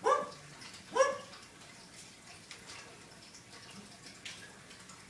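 A pet parrot gives two short, loud calls about a second apart, with faint clicks and taps between them.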